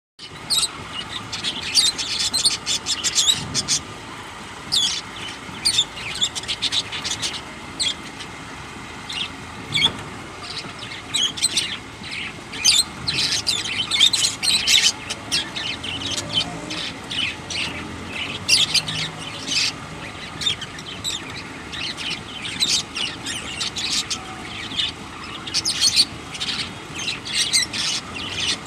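Budgerigars and lovebirds chirping and chattering, with many short high chirps coming in quick clusters.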